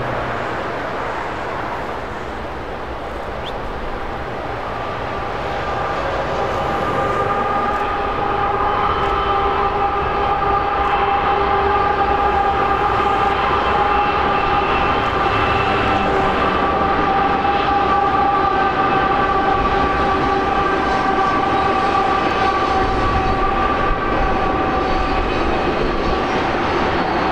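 Union Pacific freight train's cars rolling past on steel rails, the rumble growing louder over the first few seconds and then holding steady, with a steady high-pitched squeal riding over it.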